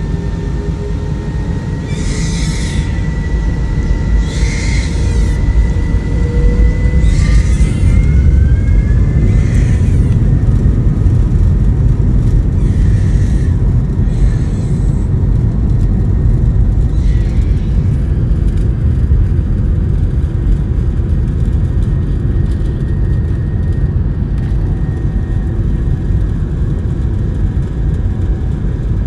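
Jet airliner engines at takeoff power: a loud, steady low rumble with a faint high whine, and a tone slowly rising in the first few seconds. Short hissing bursts come about every two seconds through the first half.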